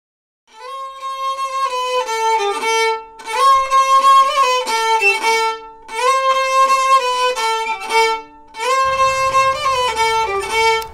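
Solo violin playing a melody in four short phrases, with brief pauses between them. A low rumble joins under the last phrase.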